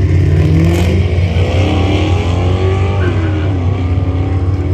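Car engine accelerating, its pitch climbing, then dropping sharply about three seconds in as it shifts gear and climbing again, over a steady low rumble.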